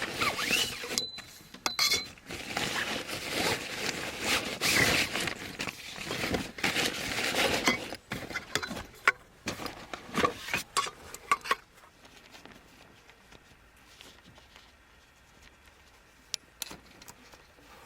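Camping gear being handled: rustling with clinks and knocks for about eleven seconds, then it goes quiet apart from a few faint clicks.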